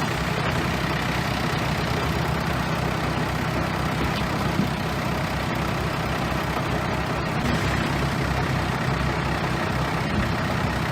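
Heavy diesel engine of a bulldozer running steadily at a constant pitch.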